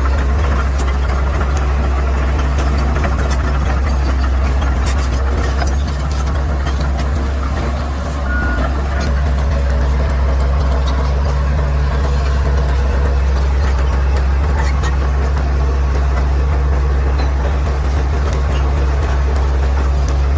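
Caterpillar D6R XL bulldozer's diesel engine running steadily, with scattered short clanks.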